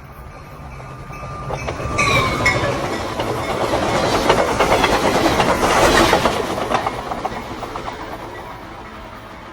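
A train passing close by. Its horn holds a steady note that drops in pitch about two seconds in as it goes past. Then the wheels clatter over the rail joints, loudest mid-way and fading toward the end.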